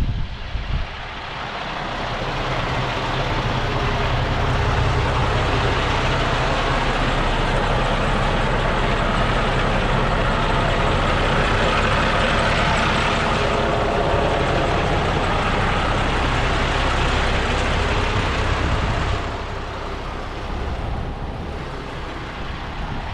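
A heavy truck's diesel engine running, with a dense rushing noise over it. The sound rises about two seconds in, holds steady, and drops back near the end.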